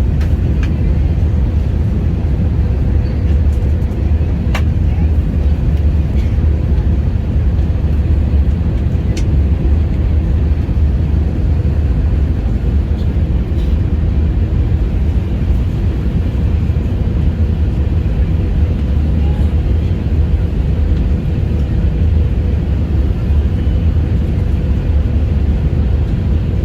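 Steady low rumble of an airliner cabin in flight, from engine and airflow noise, with a steady hum running through it and a couple of faint clicks.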